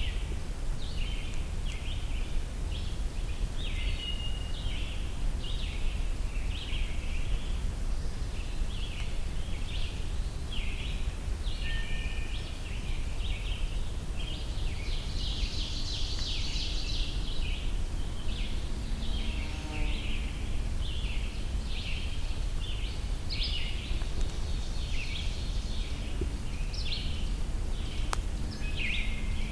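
Scarlet tanager singing its hoarse, sore-throated-sounding phrases from the forest canopy, blended into a dense chorus of other songbirds that repeat short phrases throughout. A steady low rumble runs underneath.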